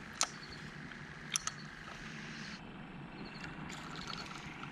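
Steady faint outdoor background hiss, broken by a few sharp clicks: one about a quarter second in and two close together about a second and a half in.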